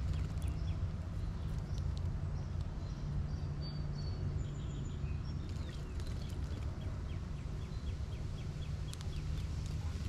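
Small birds giving short high chips and ticks in quick runs, with a couple of brief thin whistled notes near the middle, over a steady low rumble.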